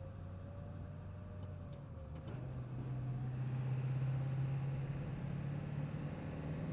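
1999 Ford F-550 dump truck's engine running on the move. About two seconds in, its note steps up and grows louder as the truck pulls harder under acceleration.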